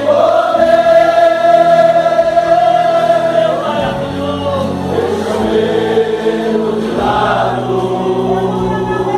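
Men's church vocal group singing a Portuguese gospel worship song in held notes, over steady low instrumental accompaniment.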